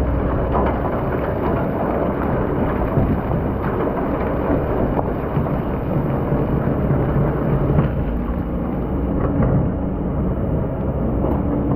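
Excavator's diesel engine running under load while the bucket grinds and scrapes through hard-packed sand, a continuous crackling rumble over the engine note.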